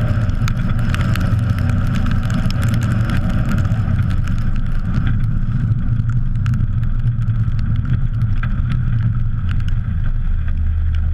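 Car engine running steadily while driving on a wet road, with wind and road noise on an outside-mounted camera and many small clicks. Near the end the engine note settles into a steadier low hum.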